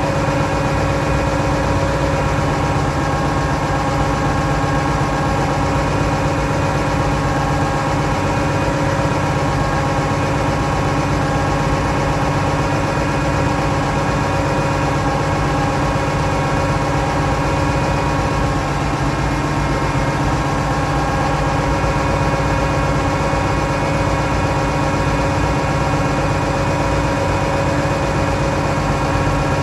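Oliver 1650 tractor engine running steadily at a constant speed, with a slight shift in its tone a little past halfway.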